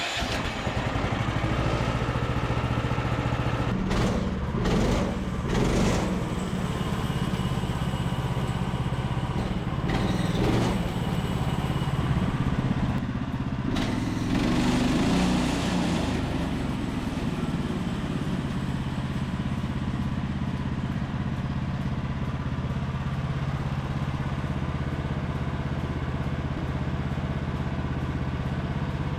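Portable band sawmill's engine running steadily at working speed, with a few short noisier stretches over it as the mill works.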